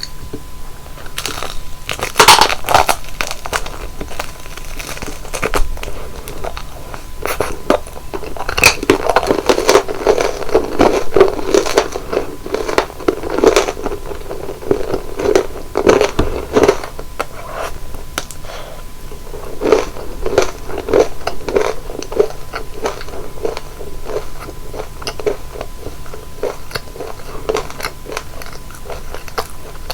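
Close-miked biting and chewing of crispy deep-fried flower buns (kkotppang), a run of sharp crackling crunches as the fried crust breaks. The crunching is densest in two long stretches, with short pauses between bites.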